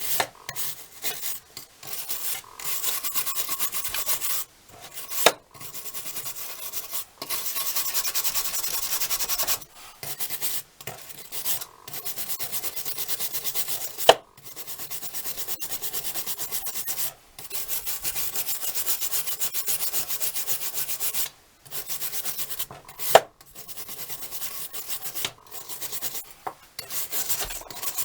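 Hand scraping and rubbing on the rusted steel of an old monkey wrench, cleaning off rust, in runs of several seconds broken by short pauses. Three sharp knocks are heard along the way and are the loudest sounds.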